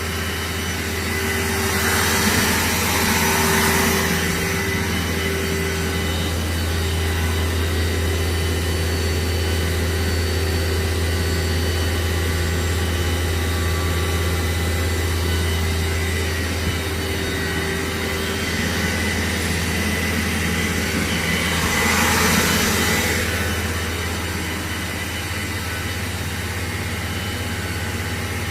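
2011 Mori Seiki NL-2000SY/500 CNC lathe running under power: a steady low hum with a steady whine over it. There are two short bursts of hiss, one a couple of seconds in and one near the end.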